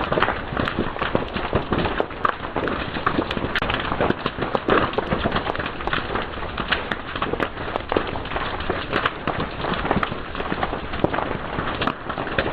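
Fire crackling and popping: a steady hiss with many sharp pops, several a second.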